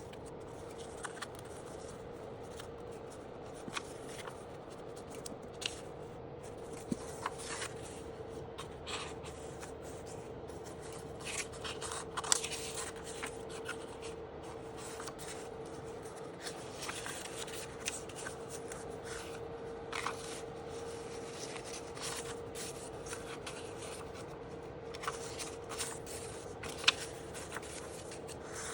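Paper being handled and cut by hand: rustling, sliding and scattered small clicks and snips, over a steady hum.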